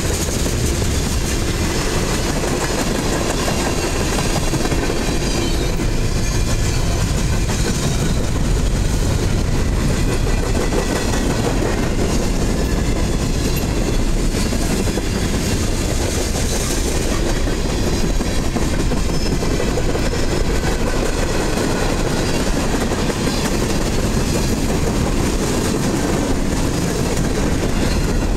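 Freight train cars, tank cars and then boxcars, rolling steadily past close by: the continuous rumble of steel wheels on the rails.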